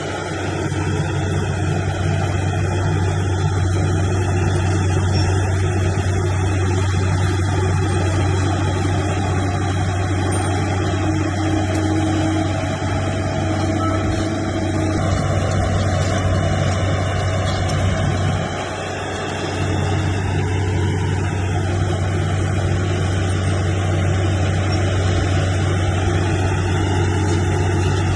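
Heavy diesel engine of earthmoving machinery running steadily under a deep, even drone, dipping briefly about two-thirds of the way through.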